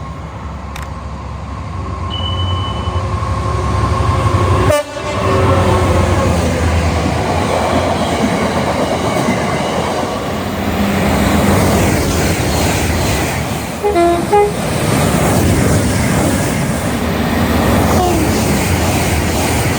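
Train running past, its rumble and rail noise building over the first few seconds and then staying loud. About two-thirds of the way through, the horn gives two quick two-tone toots.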